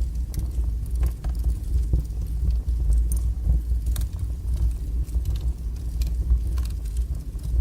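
Wood fire burning strongly in a fireplace: a steady low roar of flames with irregular sharp crackles and pops, one or two a second.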